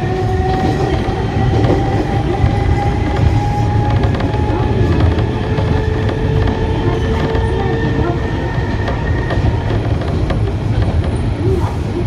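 Enshu Railway electric train heard from inside the carriage while running: a steady rumble of wheels on rails, with a high whine that climbs slowly in pitch and fades out about eight seconds in.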